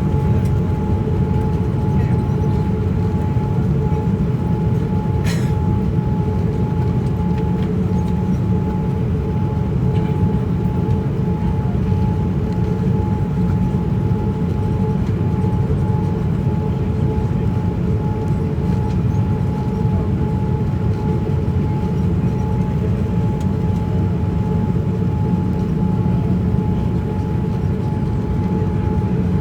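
Steady cabin noise of a Boeing 787-9 airliner descending on approach: a constant low rumble of engines and airflow with a thin steady whine over it. A single click sounds about five seconds in.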